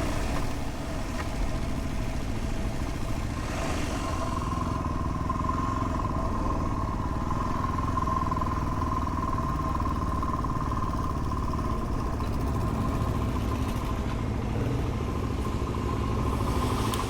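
Dual-sport motorcycle engine running steadily under way, with a steady high whine joining about four seconds in.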